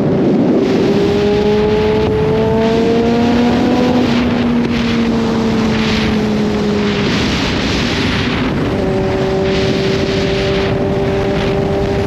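Kawasaki Z H2's supercharged inline-four engine under a gentle roll-on, its pitch rising for about four seconds, then easing off and settling to a steady cruise. Heavy wind rush runs over it, swelling about two-thirds of the way through.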